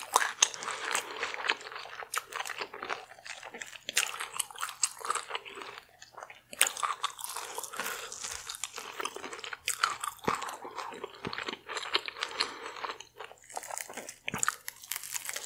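Close-miked mouth sounds of a person biting, chewing and crunching crisp deep-fried seafood-boil food. The crunches come in quick irregular clusters, with a couple of short lulls.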